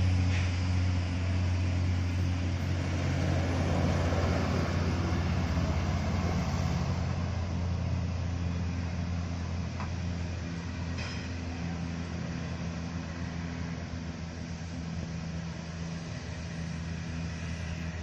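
Heavy truck's diesel engine running steadily at an even, low speed, slowly getting a little quieter.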